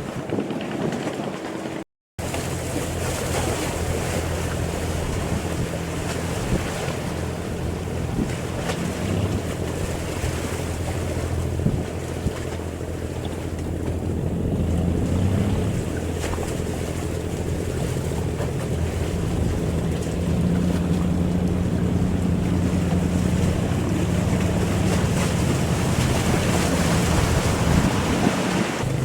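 Fishing boat's engine running with a steady low drone, with water rushing along the hull and wind buffeting the microphone. The sound cuts out for a moment about two seconds in.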